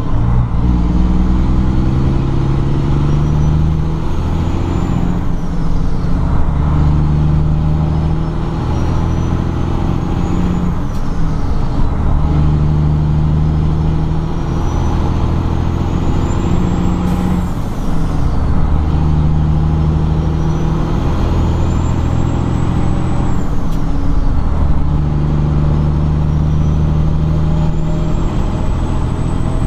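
Peterbilt's 12.7-litre Detroit diesel pulling a truck up through the gears of an 18-speed transmission: the engine note climbs, then drops at each upshift, about five shifts in a row. A turbo whistle rises with each pull and falls away at each shift.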